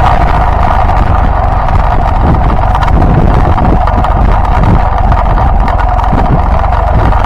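Yamaha Byson motorcycle running steadily while riding, with wind buffeting the microphone.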